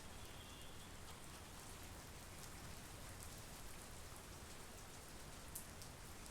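Monsoon rain falling steadily, with close drops landing as sharp little ticks. One louder drop lands near the end.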